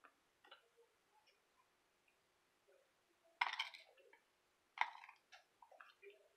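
Quiet chewing and mouth clicks of someone eating, with two louder short sounds about three and a half and five seconds in.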